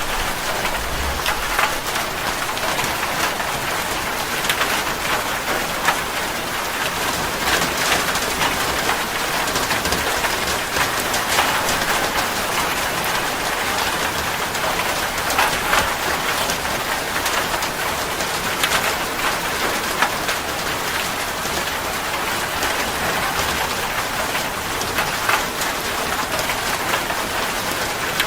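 Steady heavy rain falling, a continuous hiss dotted with many sharper individual drop hits. A brief low rumble comes about a second in.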